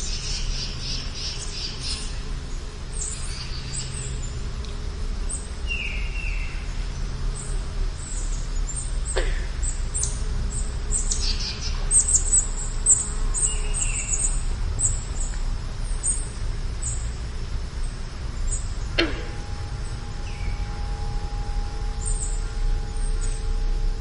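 Wild birds chirping and calling, with many short high chirps throughout and a few louder falling calls now and then, over a steady low rumble.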